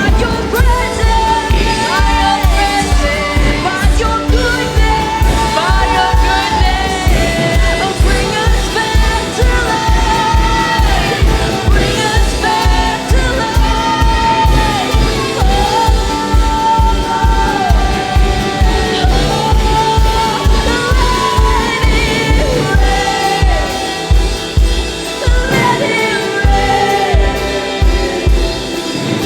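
Live worship music: singers over a band with a steady, even bass-drum beat.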